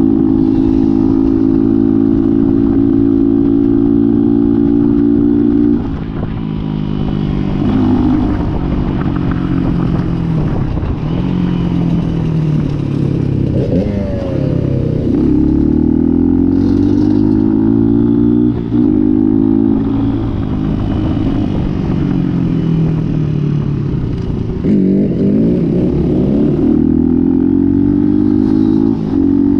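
Dirt bike engine running under way, held at steady high revs for the first few seconds, then repeatedly revving up and dropping back as the throttle is worked.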